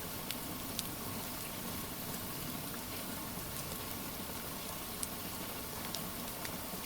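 Steady hiss of rain with a wood fire crackling: a few sharp pops scattered through, the loudest about five seconds in.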